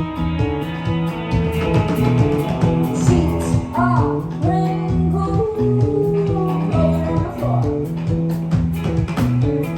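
Live rock band playing: drum kit keeping a steady beat under bass and guitars, with a bending melody line coming in over them about four seconds in.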